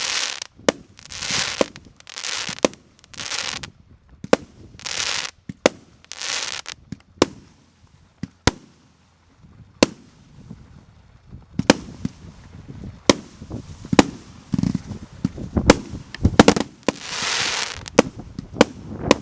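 Goblin JFC2 firework cake firing shot after shot. At first about one shot every second and a half, each a sharp bang followed by a brief crackling hiss. Then come single bangs a second or more apart, and near the end a denser run of bangs with a long crackle.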